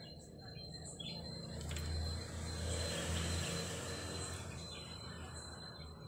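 Small birds chirping in short repeated calls over a low rumble that swells and fades in the middle, with a faint steady high whine throughout.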